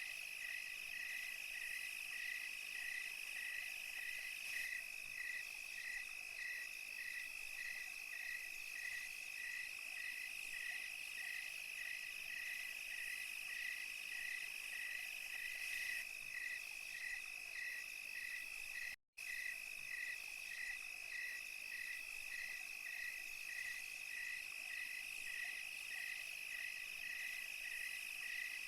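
Night insect chorus of crickets and other insects: one insect chirps evenly about twice a second over a steady high-pitched trill and a thin, hissing chorus. The sound drops out completely for an instant about two-thirds of the way through.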